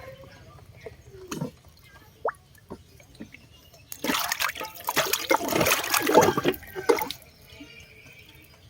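Water in a leaf-clogged rain drain splashing for about three seconds, starting about four seconds in, with scattered drips and small splashes before it.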